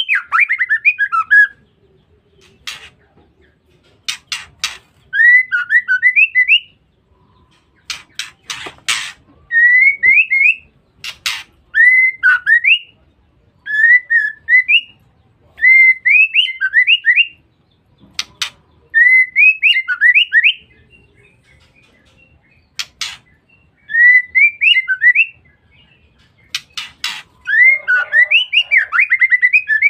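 Female white-rumped shama calling: short phrases of quick rising whistled notes, repeated about every two seconds, with sharp ticking clicks between some of the phrases.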